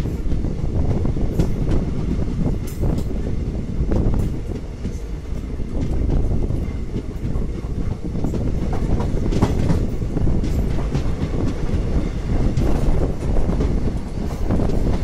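Passenger train coaches running along the track, heard from an open doorway: a steady rumble of wheels on rails with irregular clicks and clacks.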